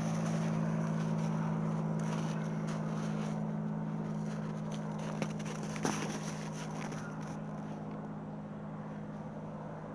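A steady low machine hum holding a few fixed pitches, slowly fading, with a short sharp click about five seconds in and another about a second later.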